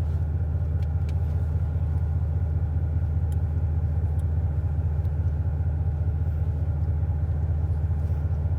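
Car engine fitted with headers, running steadily at low revs with no revving: a deep, even rumble heard from inside the cabin.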